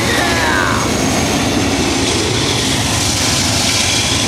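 A freight train's horn slides down in pitch and dies away in the first second. Then the steady rumble and roar of the diesel locomotives and train rolling past close by.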